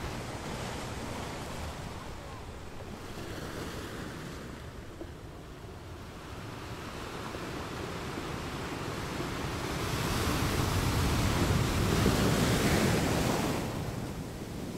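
Ocean waves washing on the shore, a steady rush of surf. A wave builds through the middle and breaks loudest a few seconds before the end, then falls away.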